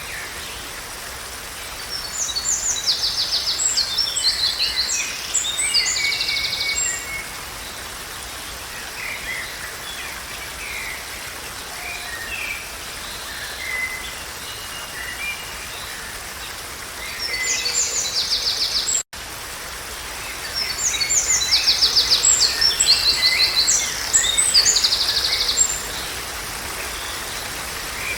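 Songbirds singing in bouts of fast trilled phrases and chirps over a steady background noise, with a brief dropout in the sound a little past halfway.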